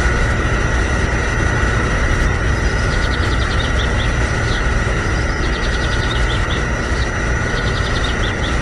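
Small electric pump motor running steadily with a whine over a low hum as it pumps liquid through a thin hose. Short high chirping trills come in about three times.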